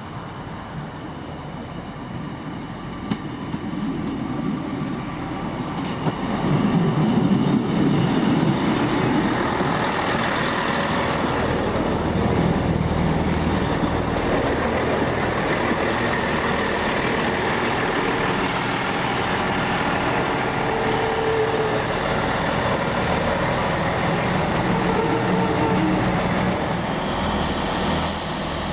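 A train approaching, growing louder over the first several seconds, then running steadily with a low drone. Two short hisses, one near the end.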